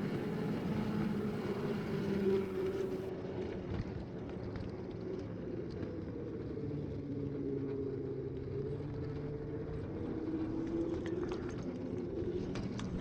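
5-inch gauge ride-on miniature train running along the garden track on a test run: a steady electric motor whine that drifts slowly in pitch over the sound of the wheels on the rails, with a few light clicks near the end.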